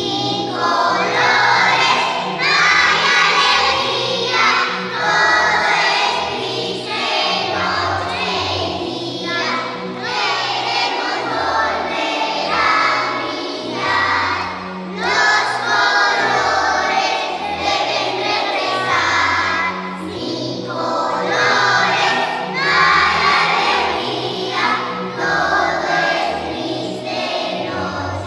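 A song sung by a group of voices, like a choir, over a musical accompaniment with a regular pulsing bass.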